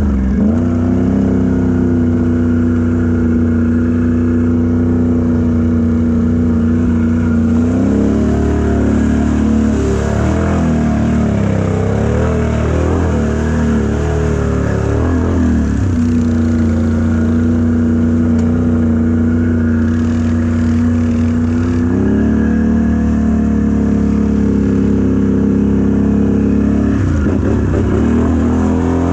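Mud truck's engine running loud at held revs, with the revs rising and falling unevenly in the middle and again near the end as the throttle is worked.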